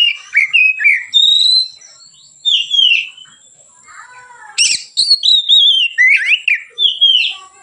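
Oriental magpie-robin (kacer) singing freely: loud, varied whistled phrases of quick downward slurs and gliding notes, with two short pauses, one of them lasting about a second, and a sharp click about four and a half seconds in.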